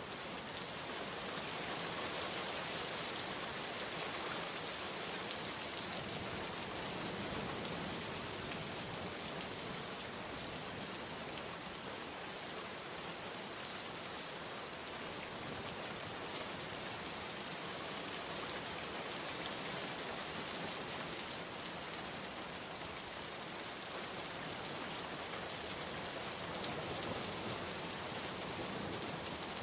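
Steady rain falling, a constant even hiss of drops on a surface.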